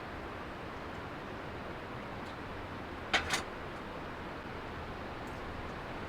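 Steady hiss of falling rain, with two sharp clicks close together about three seconds in.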